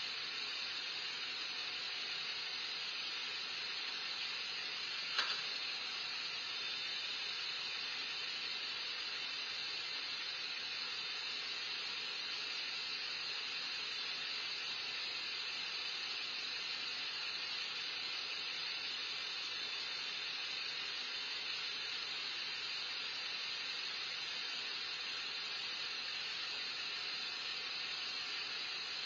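Steady, even hiss with no change in level, broken by a single brief click about five seconds in.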